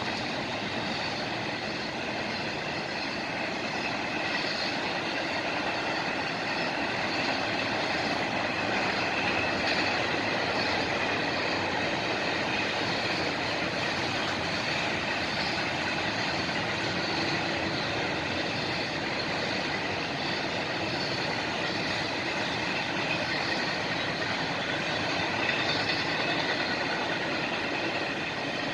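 Freight train cars rolling past on the rails, a steady continuous noise of wheels on track with faint high tones from the wheels.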